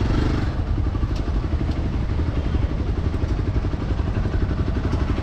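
Motorcycle engine idling steadily, an even low-pitched putter.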